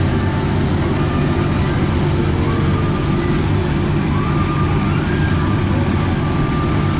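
Casey Jr. Circus Train ride train running along its track: a loud, steady rumble, with faint higher tones coming and going above it.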